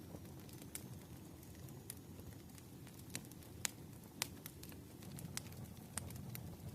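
Fire crackling: irregular sharp pops, the loudest two coming about halfway through, over a steady low rumble.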